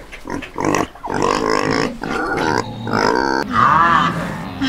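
Domestic pigs grunting and squealing. Near the end a different, higher call takes over, rising and falling in pitch several times.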